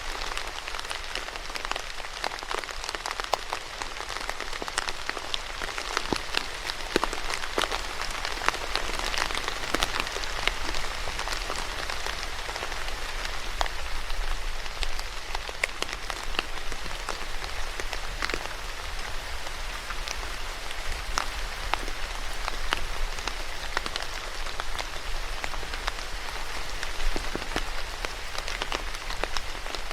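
Steady rain falling on a surface, a continuous hiss dotted with many distinct drop ticks and splashes.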